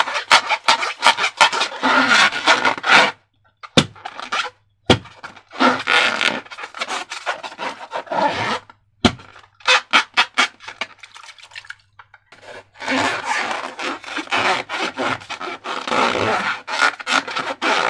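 Slime being squeezed, stretched and mixed by hand: dense runs of sticky clicking and crackling, broken by short pauses with a few single sharp taps about four, five and nine seconds in.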